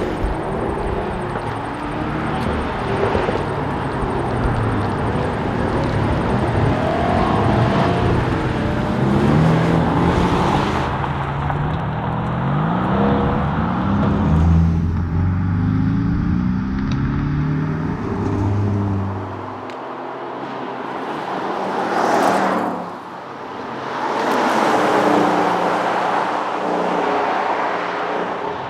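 Porsche Cayman S engine under hard acceleration, its pitch climbing and dropping back again and again as it shifts through the gears. About two-thirds of the way in, the engine note gives way to a rushing car noise that swells, dips briefly and swells again.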